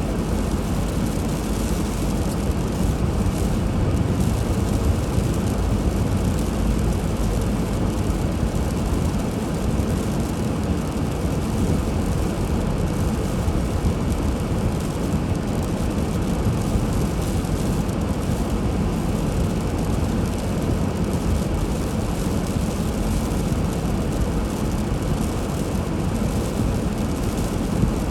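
Steady low rumble of a car driving: road, tyre and engine noise running evenly without change.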